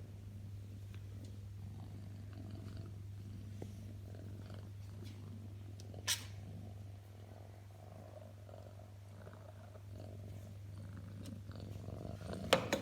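Birman cat purring steadily. A short sharp noise cuts in about halfway, and a louder sudden noise comes near the end.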